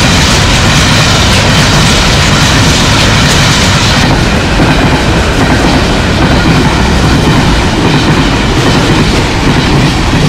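Freight train of covered box wagons passing close by at about 71 km/h: loud, steady noise of steel wheels running on the rails.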